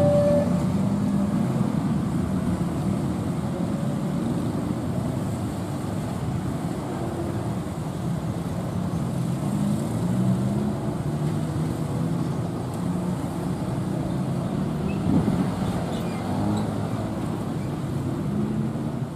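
Train running through the station with a steady low rumble that slowly grows a little quieter.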